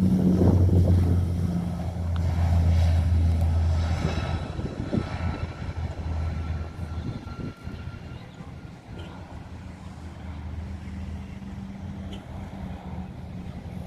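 Aircraft engines with a steady low drone and a faint whine, loud at first and fading away over the first half.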